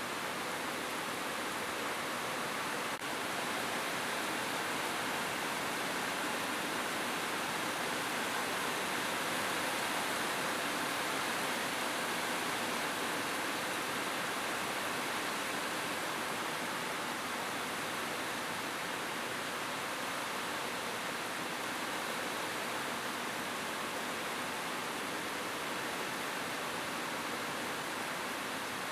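Steady rain falling on a roof, an even hiss of drops without a break in intensity.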